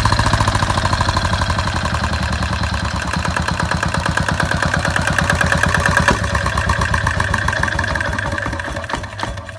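Farymann 30L30 marine diesel engine running at idle with a steady, even chugging, then shut off near the end so the beats slow and die away.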